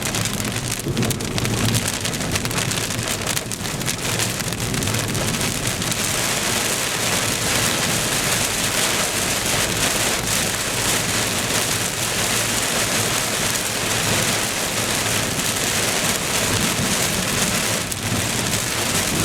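Heavy rain drumming steadily on a car's roof and windshield, heard from inside the car during a thunderstorm. The rain grows heavier about six seconds in.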